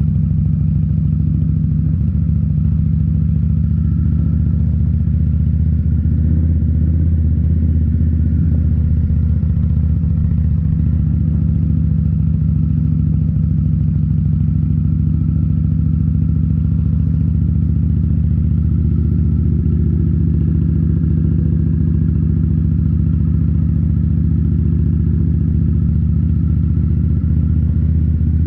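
2018 Indian Scout Bobber's liquid-cooled V-twin running through Rinehart slip-on mufflers, holding a steady engine speed with a deep, even exhaust note.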